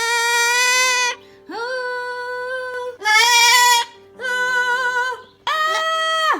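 A parrot singing a string of five long held notes, each about a second long, steady in pitch and rich in overtones, with short pauses between them.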